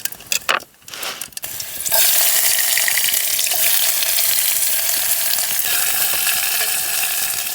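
Chopped onion dropped into hot oil in a cooking pan, sizzling loudly from about two seconds in after a few clicks of a utensil. The sizzle eases only slightly as it goes.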